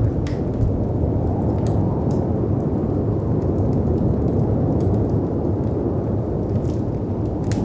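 Steady, deep rush of storm wind and surf, with scattered sharp crackles and pops from a wood fire over it.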